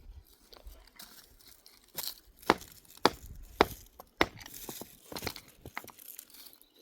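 Sharp snapping and crinkling of material being torn or handled, with a run of loud snaps about half a second apart in the middle and weaker ones after.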